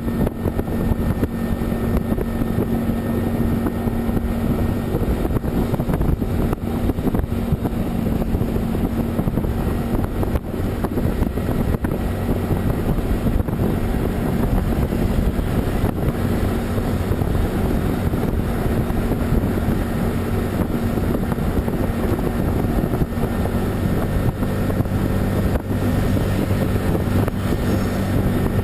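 A vehicle's engine droning steadily at a constant pitch under continuous road and wind noise, as when cruising on an expressway.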